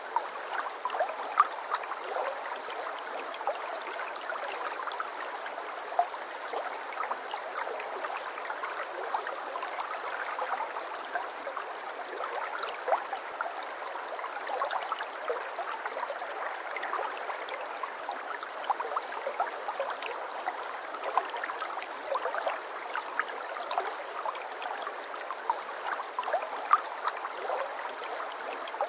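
Shallow brook babbling over stones: a steady rush of running water with many small plinks and gurgles.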